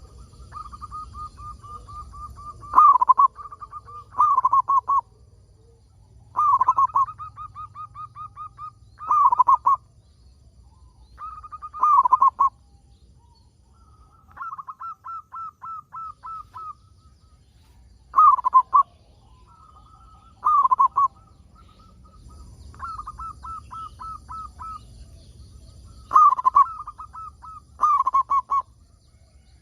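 Zebra dove (perkutut) cooing over and over: runs of quick, evenly repeated notes and loud, falling coos, a phrase every couple of seconds, over a faint low hum.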